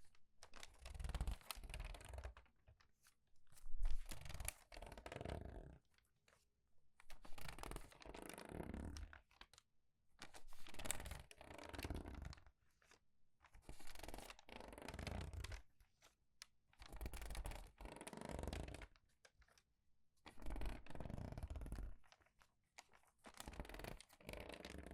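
Crumpled, crinkly paper pages being turned quickly and squeezed: crackling rustles, one every two to three seconds, with short pauses between.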